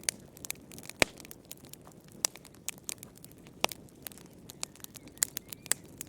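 Fireplace fire crackling: irregular sharp pops and snaps, a few every second, the loudest about a second in, over a faint low hiss.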